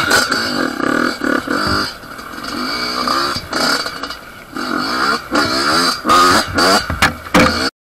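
Yamaha dirt bike engine revving hard on a steep dirt climb, the throttle opened and eased again and again so the pitch keeps rising and falling. The sound cuts off abruptly just before the end.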